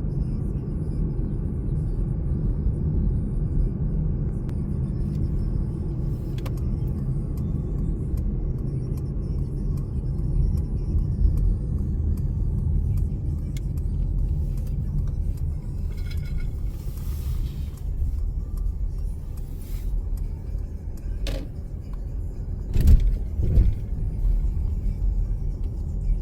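Inside a moving car: steady low engine and tyre rumble on a winding mountain road, with a few small clicks and a louder knock about 23 seconds in.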